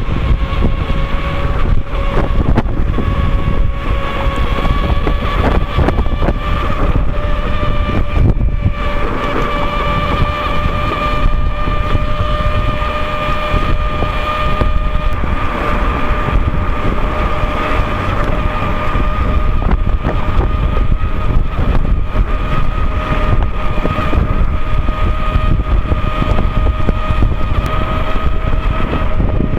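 Knobby tire of an Inmotion V13 electric unicycle humming on the road while riding, a steady droning tone that creeps slowly up in pitch as speed builds. Heavy wind rumble on the microphone underneath.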